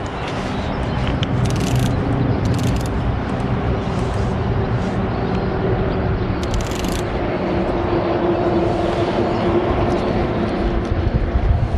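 Wind buffeting the microphone: a steady, loud rumbling rush with a few brief gusty hisses.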